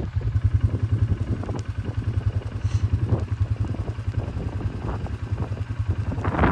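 ATV engine running steadily, with a fast, even low chugging.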